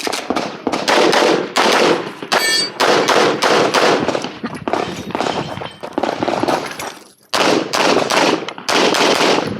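Rapid strings of handgun shots fired during a timed USPSA stage, with a steel target ringing briefly about two and a half seconds in and a short pause in the shooting about seven seconds in.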